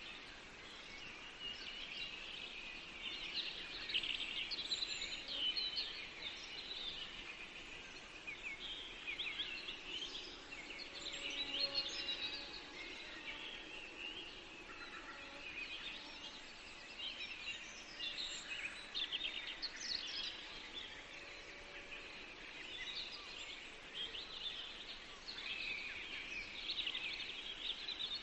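Forest birdsong: several small songbirds singing at once, with quick overlapping chirps and trills throughout, over a soft steady background hiss.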